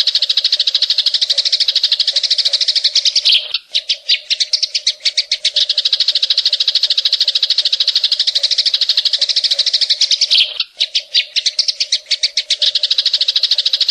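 Cucak ijo (greater green leafbird) singing a loud, unbroken run of very rapid, evenly repeated sharp chirps, the 'tembakan cililin' burst played as a masteran track to train or provoke other birds. The run breaks off briefly twice, about seven seconds apart.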